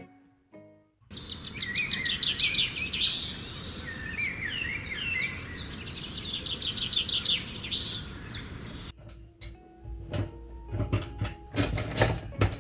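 Several birds chirping and singing over a steady outdoor background hiss, beginning about a second in. In the last few seconds the birdsong gives way to a series of sharp knocks, the loudest just before the end.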